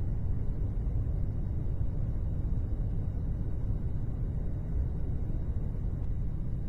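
A steady low rumble with no distinct strokes or tones.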